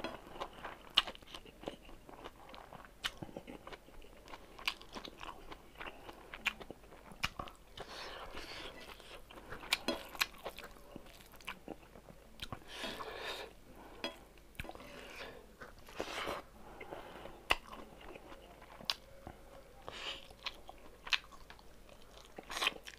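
Mouth sounds of a person eating rice and smoked pork: close chewing and smacking, with many short sharp clicks.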